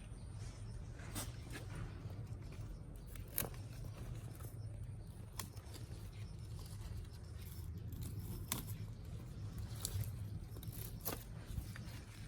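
About six short, sharp clicks or snaps, spaced one to three seconds apart, over a steady low hum.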